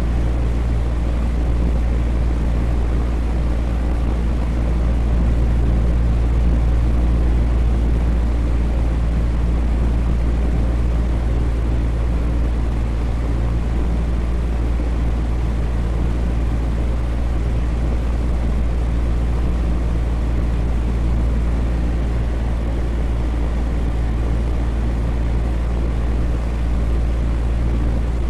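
Electric fan running steadily: a constant low rumble and whoosh of air with a faint steady hum.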